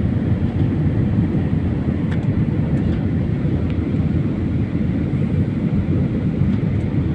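Steady, loud low rumble of an airliner heard from inside the passenger cabin: jet engine and airflow noise.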